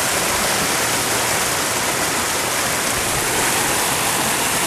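River water rushing steadily, an even wash of noise with no let-up.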